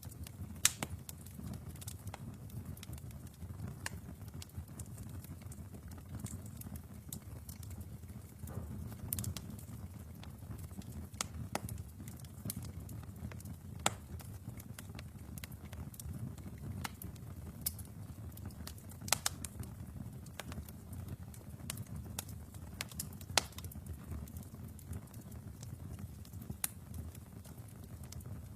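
Wood fire burning in a fireplace: a steady low rumble of flame with sharp, irregular crackles and pops from the logs, a few every couple of seconds.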